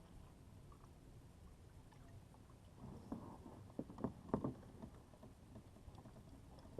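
A canoe being paddled, with a brief run of five or six short paddle sounds about three to four and a half seconds in over a faint steady background.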